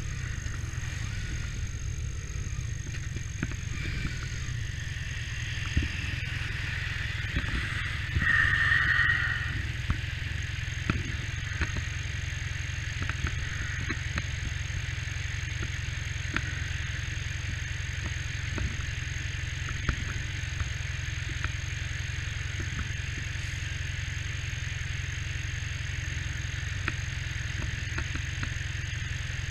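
Vehicle engine idling with a steady low rumble and scattered light rattles. About eight seconds in, a brief, louder, higher-pitched sound rises over it.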